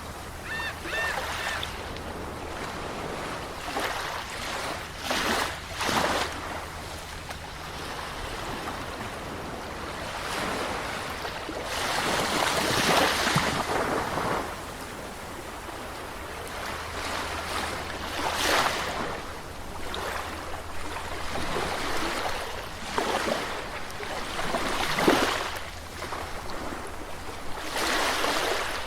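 Sea waves breaking and washing up a beach, one irregular surge after another every few seconds, with a longer, fuller wash about twelve seconds in.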